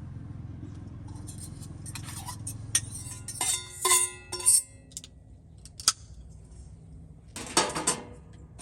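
Knife and fork clinking and scraping against a dish while a steak is cut, with a cluster of sharp ringing clinks about halfway through and a scrape near the end.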